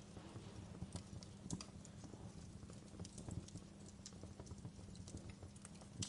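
Fireplace crackling: small irregular pops and snaps over a low, steady rumble.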